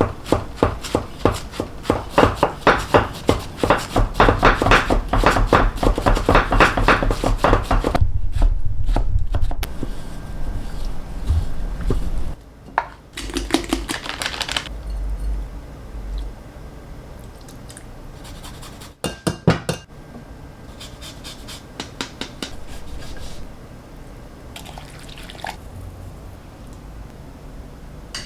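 Tuna being cut with a knife: a fast, rhythmic run of cutting strokes for about the first eight seconds, then quieter, scattered cutting and handling sounds, with a short cluster of sharp clicks about two-thirds of the way through.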